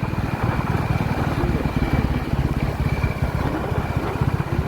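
Royal Enfield Classic 350's single-cylinder engine running while the bike is ridden, its exhaust giving a rapid, even beat of low thumps.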